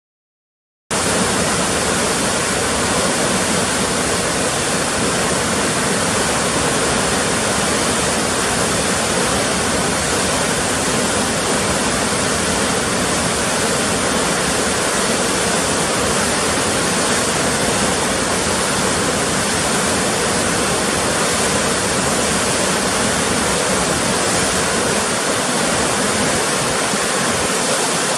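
Rushing river water, a loud steady roar that cuts in abruptly about a second in after silence.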